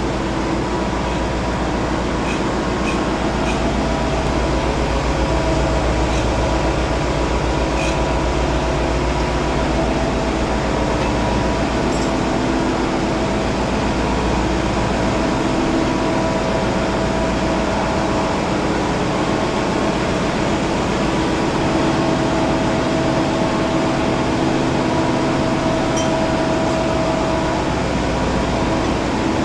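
A ship's diesel engine running steadily, with dense, even firing pulses, while its fuel injection is being set. A few faint clicks sound over the engine.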